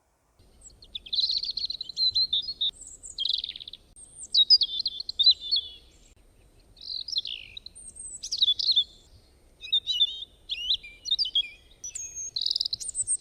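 Sparrow chirping in a series of quick twittering phrases, with short pauses between the bouts.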